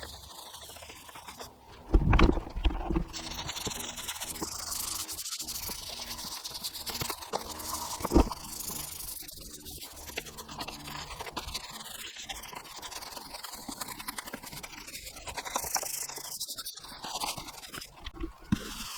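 Stiff brush scrubbing grime and grease off engine-bay parts, a steady scratchy swishing. A few loud knocks come about two seconds in, and another near eight seconds.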